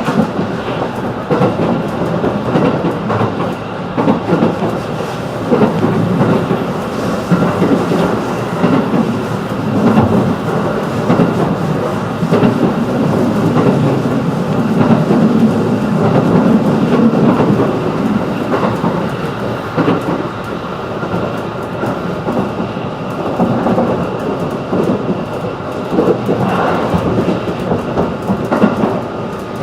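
Running noise inside a JR 211-series electric train on the move: a loud, steady rumble of wheels on rail that swells and eases, with some clatter.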